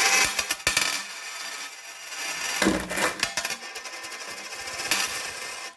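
Coins clinking and clattering continuously as a parrot rummages through a pile of them and tosses them about, with a louder clatter a little before the middle.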